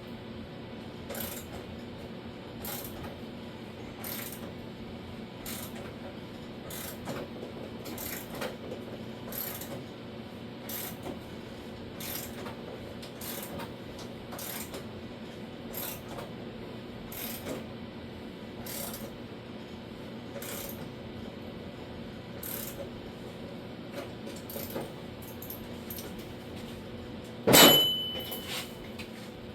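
A series of short, sharp metallic clicks, roughly one a second, over a steady shop hum. Near the end comes one loud metal clank that rings briefly.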